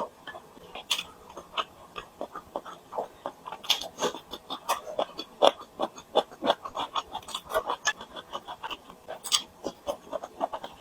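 Close-miked eating sounds: chewing and wet mouth smacks, irregular short clicks several times a second.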